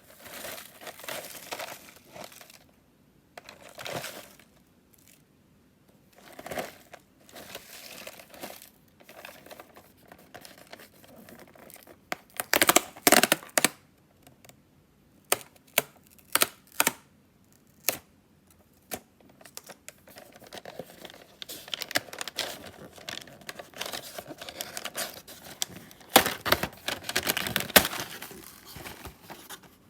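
Snack packaging being handled and torn open: crinkling plastic wrappers and tearing in irregular bursts, loudest about 13 seconds in and again in a long stretch of crinkling near the end, with a few sharp clicks in between.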